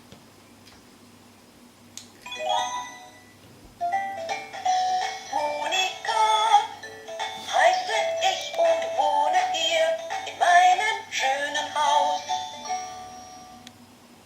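Electronic toy playhouse playing a short song through its small speaker, with a synthesized voice singing the melody. A click about two seconds in is followed by a brief musical phrase, then the song runs and fades out near the end.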